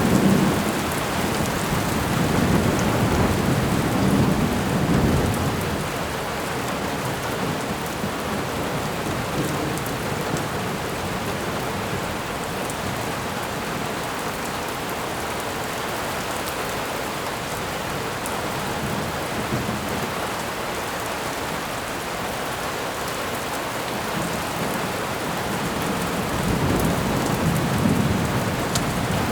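Thunderstorm ambience: steady rain falling, with low rolls of thunder rumbling at the start, again a few seconds in, and near the end.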